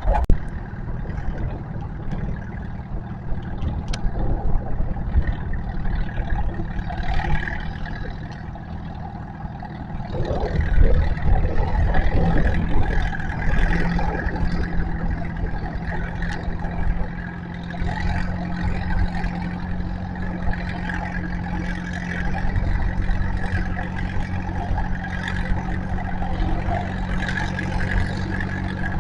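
Tractor engine running hard during a tractor pull: a steady, loud drone that gets louder from about ten seconds in.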